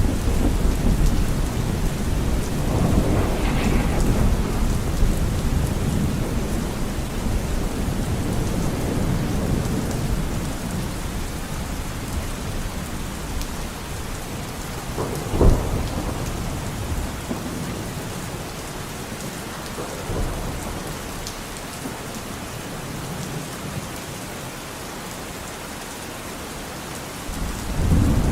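Steady heavy rain falling in a forest, with thunder rumbling low at the start, a sharp crack of thunder about halfway through, and the rumble dying away before a new peal builds near the end.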